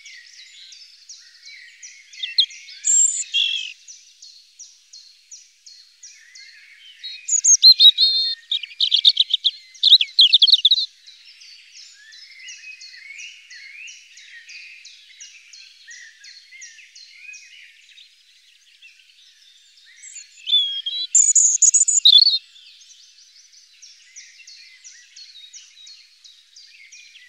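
Birds singing and chirping, with a fast, steady train of small chirps underneath. Louder phrases of song come three times: a few seconds in, around the middle-early part, and again about three-quarters of the way through.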